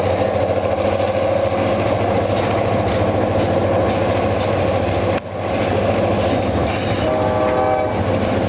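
Freight train of loaded ballast cars rolling past on the rails, a steady rumble and rattle. There is a brief drop about five seconds in, and a short tonal sound sits over the rolling noise near the end.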